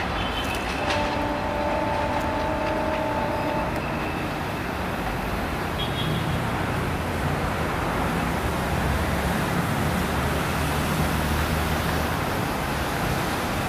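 Steady rumble of an approaching diesel passenger train mixed with road-traffic noise, with a low engine drone coming in about halfway through. A two-tone horn is held for about three seconds near the start.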